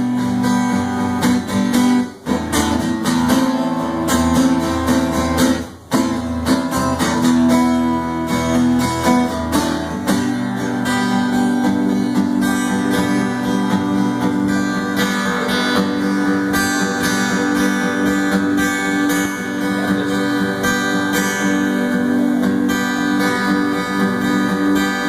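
Acoustic guitar strumming chords in an instrumental break between verses of the song, with a low bass part under it for the first ten seconds or so.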